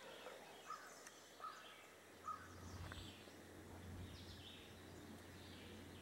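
Near silence: quiet woodland ambience with a few faint, short bird chirps, three of them in the first two and a half seconds.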